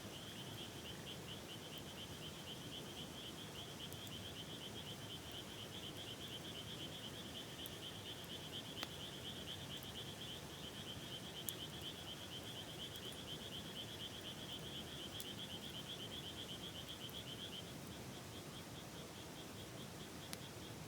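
A frog calling in one long, rapid trill, which weakens about three-quarters of the way through, over the steady rush of a river. A few faint crackles from the campfire.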